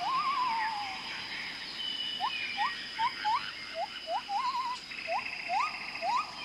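Amazon rainforest wildlife chorus: many overlapping short whistled calls, each rising sharply in pitch, about two a second, with a few longer wavering trills among them, over a steady high insect drone.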